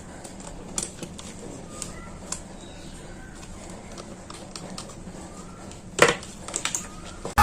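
Scattered light clicks and taps of small parts and tools being handled during a repair, with a sharper knock about six seconds in followed by a quick run of small clicks.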